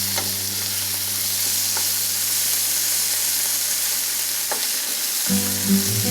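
Bitter gourd pieces sizzling in hot coconut oil in a frying pan, with a few light clicks as they are stirred.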